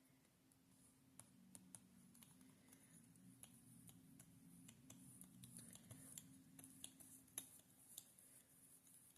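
Near silence: faint, scattered small clicks and light taps over a low hum, from tissue paper and a brush of glue medium being worked on a journal page.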